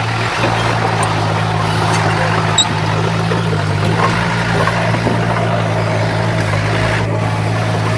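Heavy diesel engine of earthmoving machinery running steadily at a constant speed, a low even hum with a rougher mechanical noise over it.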